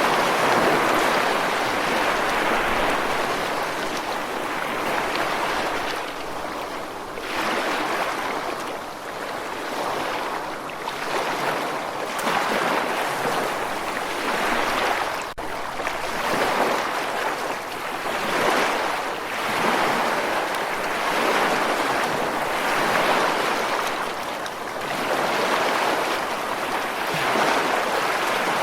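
Ocean surf: a steady rush of waves breaking and washing in, swelling and fading every few seconds.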